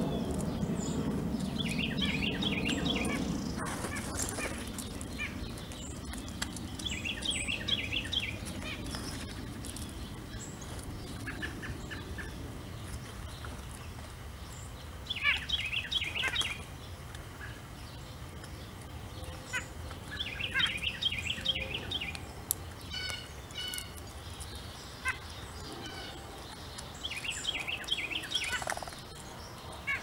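A songbird singing short phrases of quick chirping notes, repeated about every five or six seconds, over a steady low background rumble.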